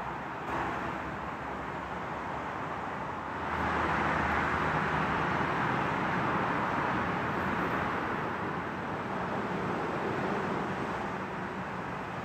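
Metro-North M8 electric multiple-unit commuter train approaching and slowing into the station platform: a steady noise of the moving train that gets louder about three and a half seconds in.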